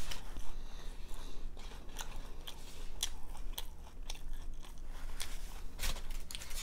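Close-up crunching and chewing of a crispy fried veggie roll, with many sharp crisp crunches as it is bitten and chewed.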